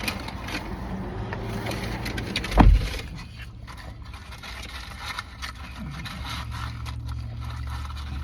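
A person eating fast food: crunchy chewing and handling of the food and its paper wrapping, with scattered crackles. A loud low thump comes about two and a half seconds in, over a low steady hum that grows stronger in the second half.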